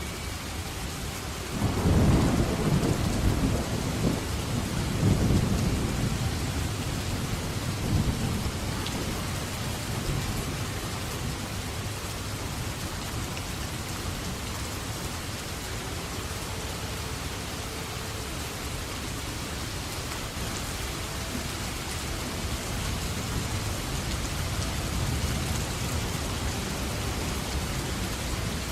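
Steady heavy rain, with a roll of thunder that breaks in suddenly about two seconds in, rumbles in several swells and dies away by about ten seconds.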